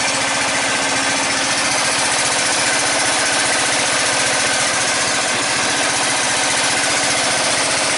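A lawn tractor's 14.5 hp Briggs & Stratton engine running steadily at an even speed. It is running again after a no-start that was traced to the fuel line and fixed with new fuel line and filters.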